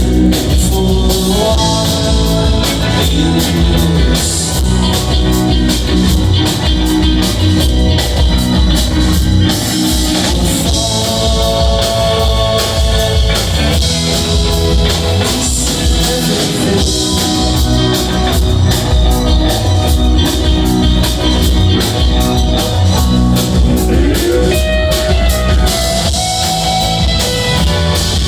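Live rock band playing an instrumental jam: electric guitar lead with bent notes over a steady drum kit.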